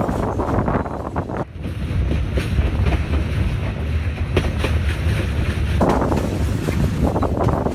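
Wind buffeting the microphone held out of a moving passenger train's window, over the steady running noise of the train on the rails.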